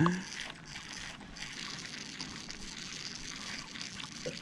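Steady outdoor wind and water noise on an open boat, an even hiss with no engine tone. A brief voice sound comes right at the start.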